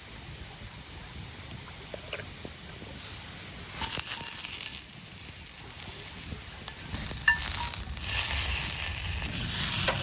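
Food sizzling in a hot pan: a short burst about four seconds in, then steady frying from about seven seconds on, with scattered crackles.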